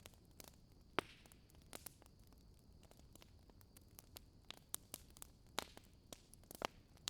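Wood fire crackling: irregular sharp pops and snaps over a faint steady hiss, the loudest snaps about a second in and near the end.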